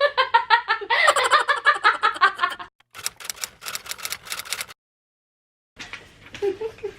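A woman laughing hard in quick, rhythmic pitched bursts, trailing off into breathy, wheezing laughter, then cutting off abruptly into dead silence about five seconds in.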